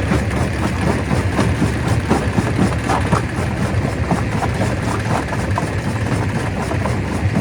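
Stone crusher running under load: a steady heavy machine drone with rapid, irregular cracks and knocks of rock being broken.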